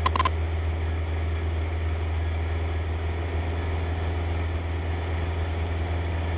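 Steady drone of a Cessna 152's engine and propeller at cruise power, heard in the cabin. A brief radio click and tone comes right at the start.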